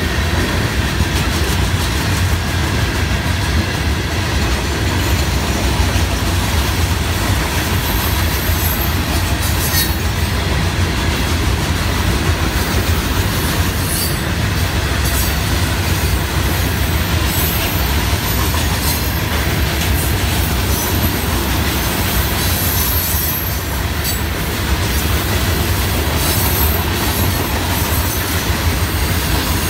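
Loaded Florida East Coast Railway rock hopper cars rolling past, a steady rumble and clatter of steel wheels on rail, with brief sharp high sounds now and then.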